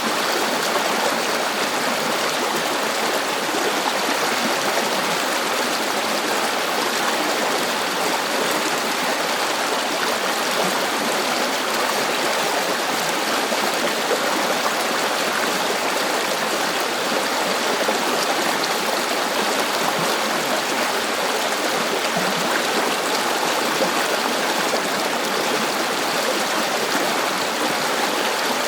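River water flowing and rushing over stones, a steady unbroken sound.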